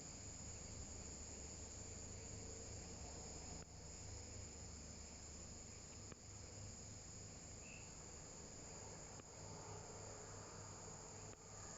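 Viadana katydid singing: a steady, high-pitched insect buzz that breaks off for a moment every two to three seconds, with a faint low rumble underneath.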